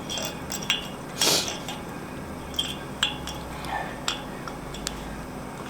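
Light metallic clinks and scrapes, scattered one by one, as a new steam radiator air valve is screwed on by hand over Teflon-taped threads, with a short rustle about a second in.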